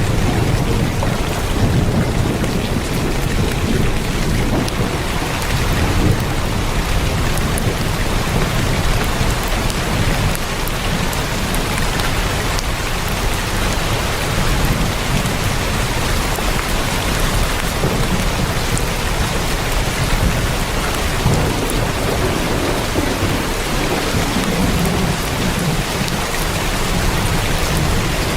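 Heavy rain falling on a tin roof: a steady, dense hiss of drops, with a low rumble underneath that swells and fades.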